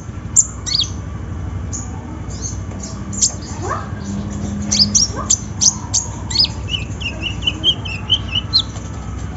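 Kolibri ninja sunbird singing: a string of short, sharp high chirps and quick falling notes, with a fast run of twittering notes about seven seconds in.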